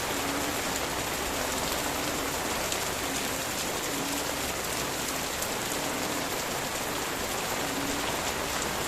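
Steady rain falling on leaves, with frogs calling in the background: short low croaks recurring every second or two.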